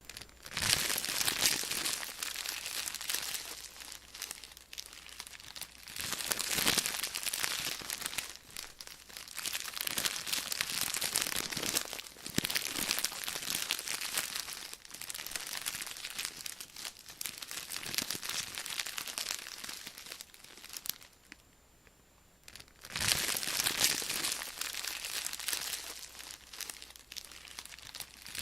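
Potato chip bag crinkling as it is handled and folded closed, the plastic crackling in repeated bouts every few seconds, with a brief pause before the last bouts.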